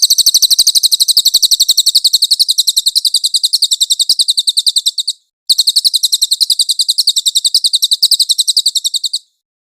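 Cililin birdsong: a long, very rapid, high-pitched trill of about a dozen notes a second, in two bursts separated by a brief break about five seconds in, ending abruptly near the end.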